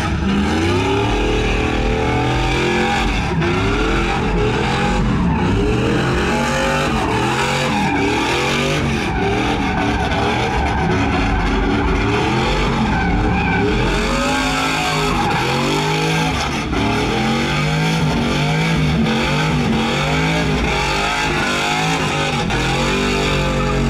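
Truck engines revving up and down over and over, with tire squeal and skidding, as at a burnout pit.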